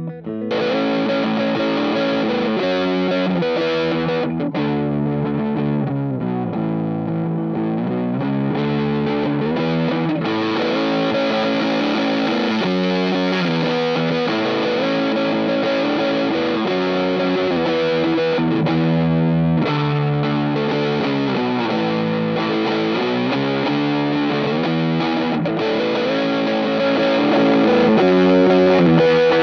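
Electric guitar, a 2006 Gibson SG GT, played through a Stone Deaf Warp Drive high-gain overdrive pedal, playing a heavily distorted riff of held chords and notes. It gets a little louder near the end.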